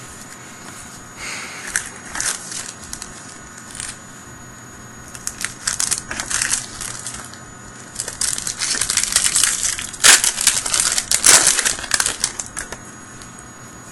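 Foil booster pack wrapper crinkling in irregular bursts as it is handled and opened, loudest about ten seconds in.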